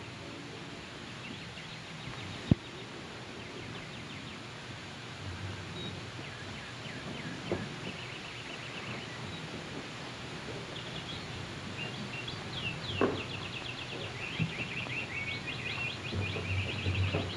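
Birds chirping in short repeated trills, sparse at first and busier from a little past halfway, over a steady hiss. A single sharp click about two and a half seconds in, and a few soft knocks later on.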